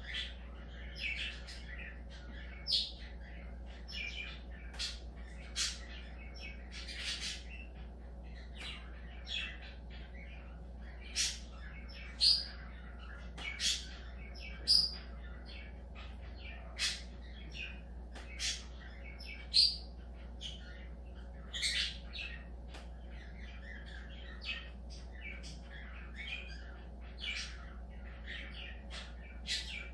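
Pet budgerigars calling: a continuous run of short chirps and chatter, with a few louder, sharper calls here and there, over a low steady hum.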